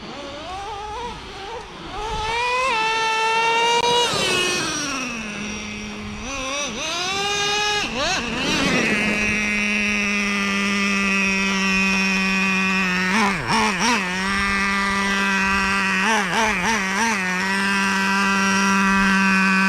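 Traxxas Revo 3.3's two-stroke nitro engine revving up and down twice, then holding a steady high-pitched whine for about ten seconds with a few brief dips in the second half. The engine is freshly broken in and tuned, running well.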